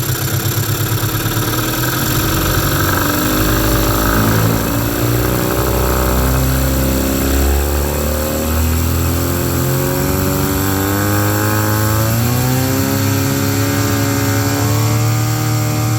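1997/98 Mercury 15 hp two-stroke outboard running in gear, its revs climbing slowly from a lumpy idle. The engine eases off briefly midway, then picks up again and holds at a higher speed without bogging out, a bog the customer reported but the mechanic cannot reproduce.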